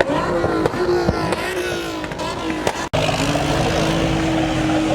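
Car engines running at varying revs, then a sudden cut about three seconds in to an engine holding a steady drone.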